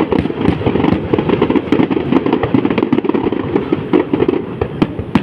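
Fireworks going off in a dense, continuous crackling barrage of rapid pops, with a few sharper cracks near the end.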